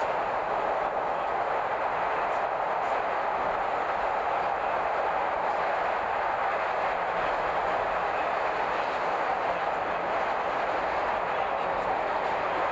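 Chicago rapid-transit train running at steady speed, a continuous rumble and rail noise heard from inside the car.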